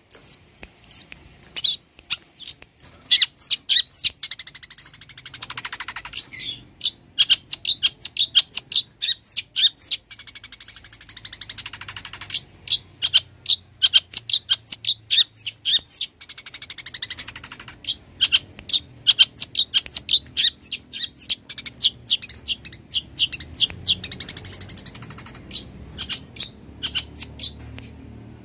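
Long-tailed shrike (cendet) singing a fast, nearly unbroken run of short, sharp chirping notes, with only brief pauses.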